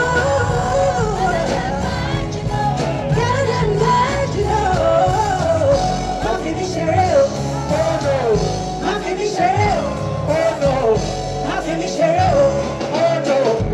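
Live band music with a sung melody over a heavy bass beat.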